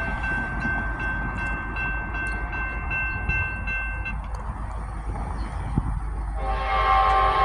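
Norfolk Southern freight train approaching with a steady low rumble. A thin high steady tone stops about four seconds in. Near the end the locomotive's air horn starts sounding loudly, a chord of several notes.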